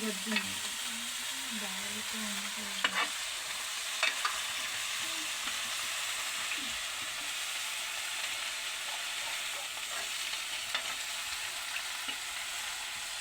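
Food frying in a pan with a steady sizzle, with a few sharp clicks of a utensil stirring against the pan.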